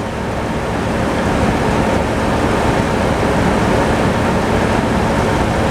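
Tractor engine powering a sawmill, running steadily, with a mechanical noise that grows a little louder over the first second or so and then holds level.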